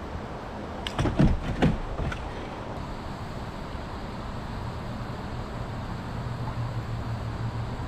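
A quick cluster of four or five knocks and clatters about a second in, over a steady background hiss of wind and water.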